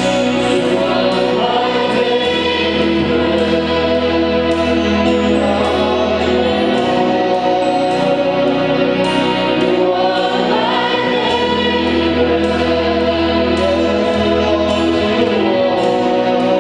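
Congregation singing a slow gospel worship song with instrumental backing and a held bass line that changes every few seconds.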